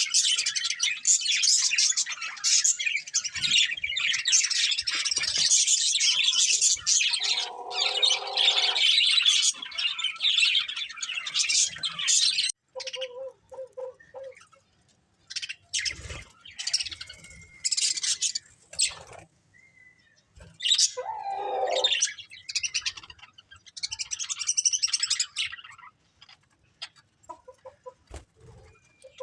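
Pet budgerigars chattering and chirping: a dense, continuous warble for the first twelve seconds or so, then scattered short chirps and calls with quiet gaps between them.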